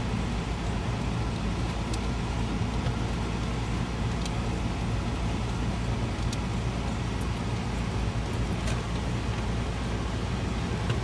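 Steady engine and road noise of a four-wheel-drive vehicle driving, heard from inside the cabin, with a low rumble throughout. A few faint ticks come every couple of seconds.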